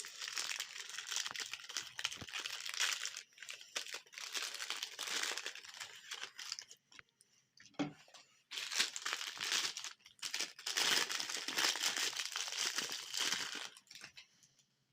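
Plastic ice cream wrappers crinkling and tearing as they are handled and opened, in several bouts with a short pause and a single knock about halfway through.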